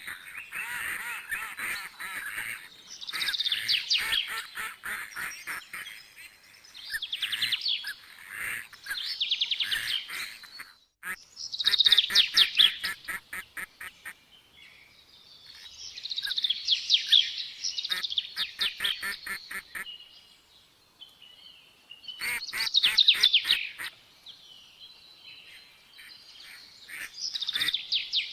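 Birds calling in repeated bursts of fast, chattering notes. Each burst lasts a second or two and comes again every few seconds.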